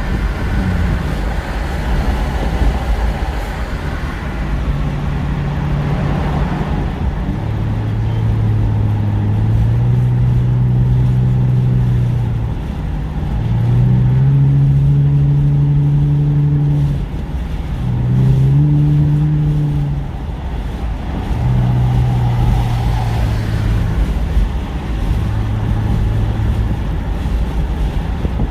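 Car engine and road noise while driving. The engine note holds, climbs in steps and drops back several times as the car accelerates and shifts gears.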